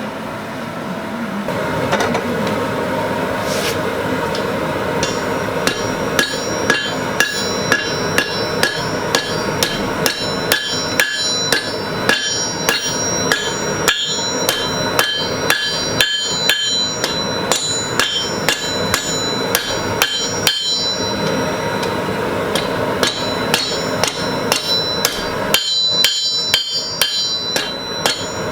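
Hand hammer striking hot carbon-steel knife stock on an anvil, forging the blade's integral guard. The blows come in a steady rhythm, about one to two a second, each with a bright metallic ring, over a steady background noise.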